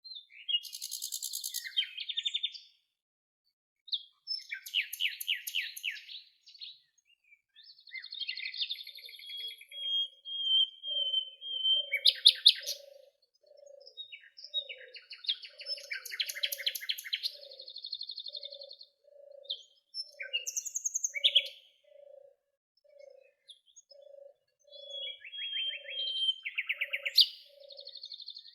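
Songbirds singing in short bursts of rapid chirps and trills, phrase after phrase with brief pauses between. From about nine seconds in, a low short note repeats steadily about one and a half times a second underneath.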